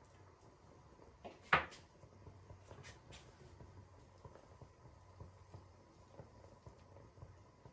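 Quiet kitchen handling sounds: one sharp knock about a second and a half in, then a couple of lighter clicks, over faint rustling.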